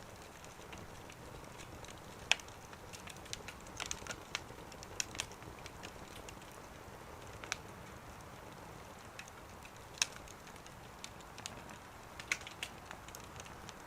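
Wood fire crackling in a small wood stove: scattered sharp pops and snaps at irregular intervals, the loudest about two seconds in and again near ten seconds, over a faint steady background.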